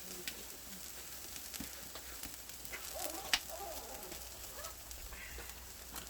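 Marinated pork belly sizzling over a wood fire: a steady hiss with scattered crackles and one sharp crack about three seconds in.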